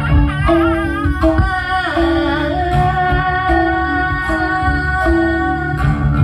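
Karinding ensemble music. A wavering melody line settles into a long held note about two seconds in, over a steady rhythmic low pulse.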